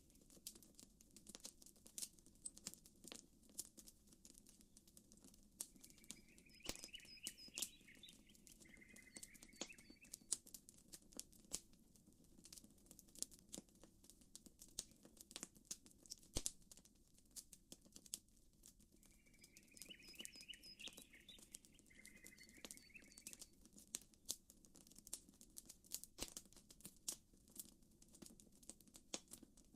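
Campfire crackling softly with frequent sharp pops and snaps. A bird calls twice with a short chirping phrase, about six seconds in and again about twenty seconds in.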